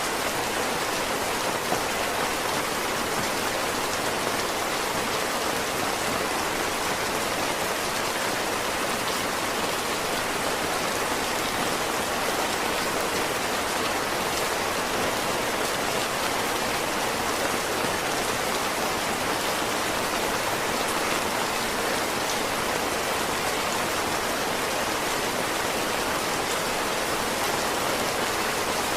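Heavy rain falling steadily, an even, unbroken hiss of dense drops.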